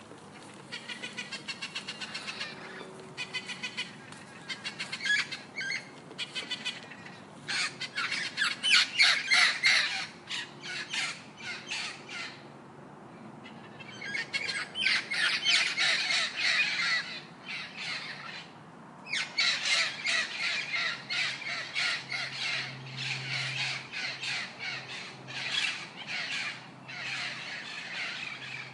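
Gouldian finches calling in fast runs of short, harsh chattering notes, broken by a couple of brief pauses.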